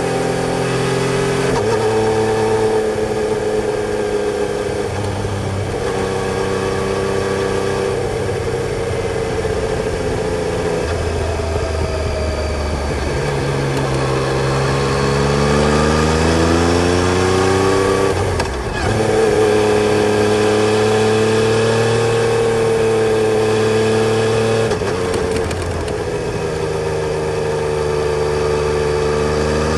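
Yamaha Tracer 900 GT's inline three-cylinder engine under way, its note holding steady and stepping in pitch several times as the revs change. A long rise in revs through the middle ends in a brief drop, after which it runs steadily, and the revs climb again near the end.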